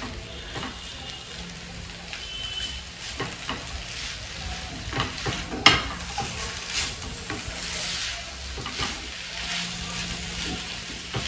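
Chow mein noodles stir-frying in a hot pan, sizzling, while a spatula scrapes and knocks against the pan again and again.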